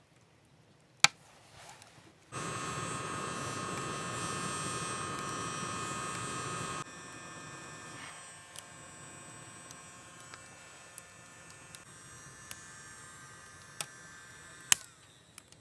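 A steady electric-sounding buzz, loud for about four seconds, then dropping to a quieter buzz that carries on with a few sharp clicks.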